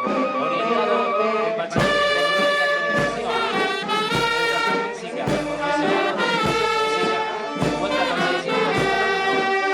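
Brass band music, with trumpets and trombones holding and changing notes over a bass drum beat about once a second.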